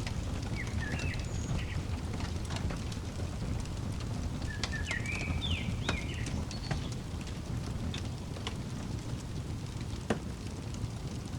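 Fireplace crackling with scattered sharp pops over a steady low rumble. A small bird chirps a few short notes about a second in and again around five seconds in.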